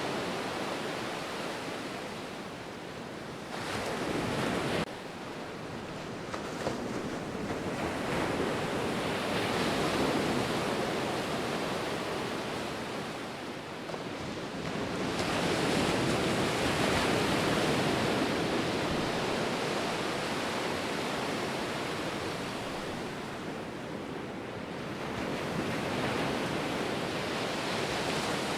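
Ocean surf washing ashore, a steady rush that swells and eases in slow surges every several seconds. A brief louder surge about four seconds in cuts off suddenly.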